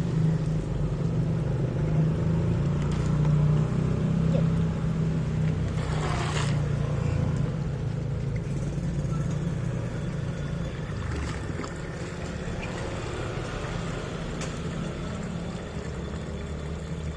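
Small electric motor of a toy remote-control boat running with a steady hum, louder in the first half and then easing off.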